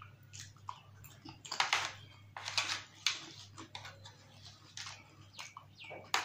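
Close-up chewing and crunching of dahi puri, crisp puri shells with yogurt, in irregular bursts of crackly bites and wet mouth sounds, busiest a second or two in. A steady low hum runs underneath.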